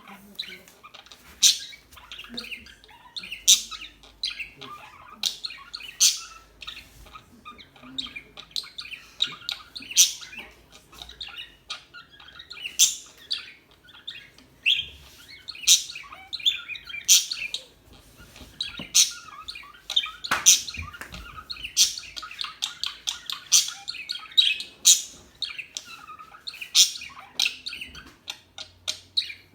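Pet parakeets chirping and chattering: sharp, high chirps every second or two over a steady background of softer twittering.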